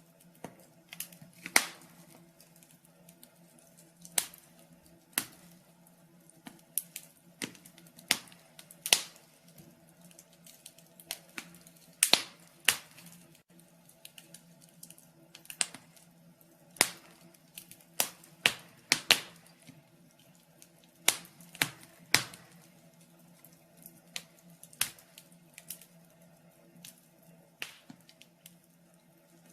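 Burning firewood crackling in a fireplace, with sharp, irregular pops about once or twice a second, some much louder than others, over a faint steady hum.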